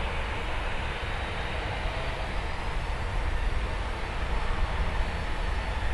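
Distant jet noise of a Boeing 737-800's CFM56-7B turbofan engines at takeoff power, a steady rushing sound slowly growing louder, with wind rumbling on the microphone.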